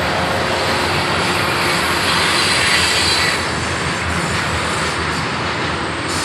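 A train passing close by: a loud, steady rumble and rushing hiss that swells about two to three seconds in.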